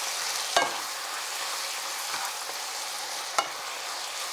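Onions, garlic and carrot sizzling in a frying pan with a steady hiss. Two sharp knocks sound over it, one about half a second in and one a few seconds later.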